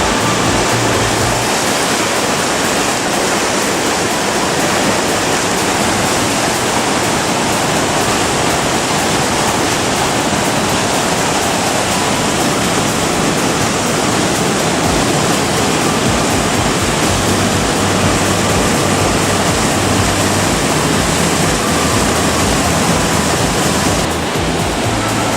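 Steady, loud rush of Fukiware Falls, the Katashina River's water pouring over the rock ledge into its gorge.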